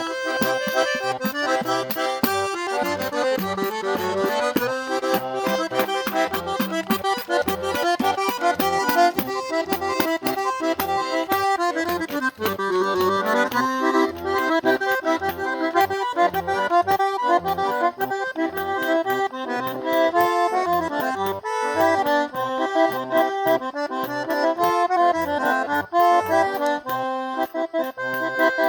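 Eight-bass diatonic button accordion (gaita oito baixos) playing a tune, the melody running over a steady pulsing bass-and-chord accompaniment.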